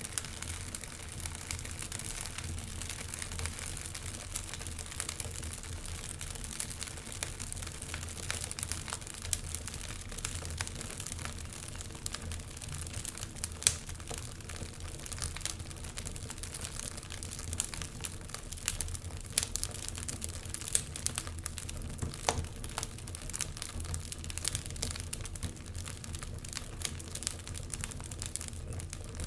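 Wood fire crackling in a fireplace: a steady low rumble of burning with frequent sharp pops and crackles. There is one louder pop about fourteen seconds in.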